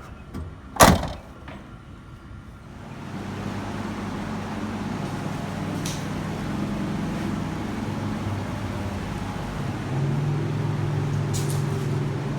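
A door shuts with one loud bang about a second in. A couple of seconds later an engine starts running steadily, and its note rises a step near the end.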